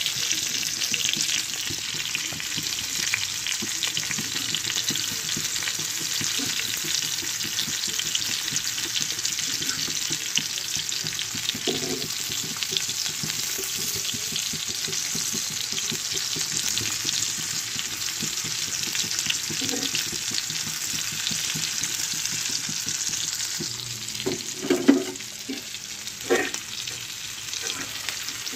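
Chicken pieces frying in hot oil in a pan, a steady sizzling hiss. A metal fork knocks and scrapes against the pan a few times as the pieces are turned, loudest in a short cluster a few seconds before the end.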